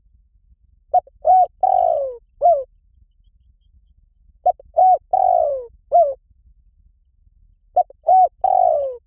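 Spotted dove cooing: three identical phrases about three and a half seconds apart. Each phrase is two short coos, a longer coo that falls in pitch, then a short final coo. The last phrase runs on past the end.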